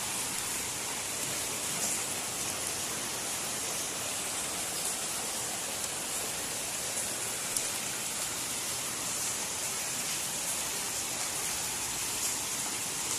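Very heavy rain falling, a steady dense hiss with faint scattered drop ticks.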